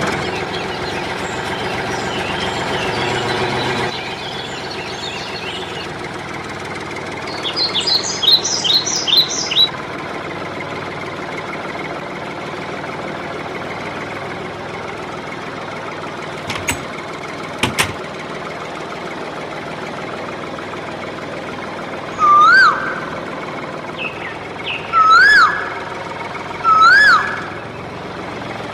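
A small motor runs steadily throughout. Bird chirps come through at times, including a quick run of chirps and, near the end, several loud calls that rise and then fall.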